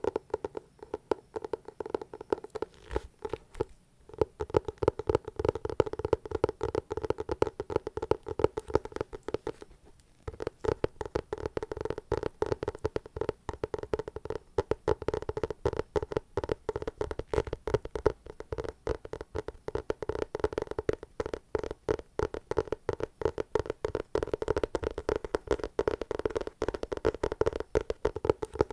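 Close-miked ASMR trigger sound: dense, fast crackling and sticky clicks, with short pauses about 4 and 10 seconds in.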